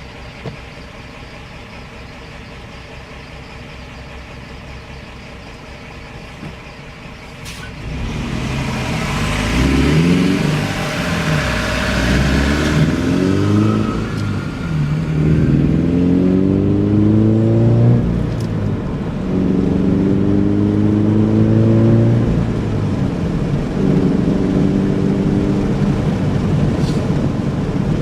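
Car with an aftermarket cat-back exhaust, first running at a steady low drone, then from about a third of the way in accelerating hard through the gears: the exhaust note rises in pitch in each gear and drops at each shift, about five times. Heard with the car's windows open.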